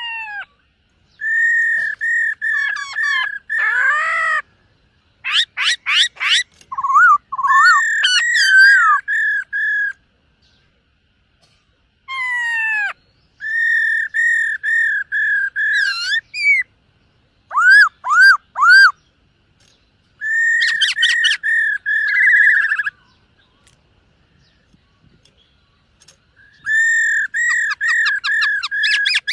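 Black-throated laughingthrush singing: loud whistled phrases made of quickly repeated notes, mixed with rising and falling calls and fast trills, in several bursts with pauses of a few seconds between them.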